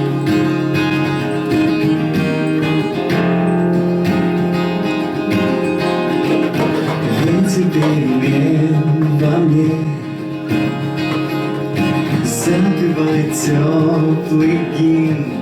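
Acoustic guitar strumming chords as a song's introduction, with a wordless sung melody joining in about halfway through.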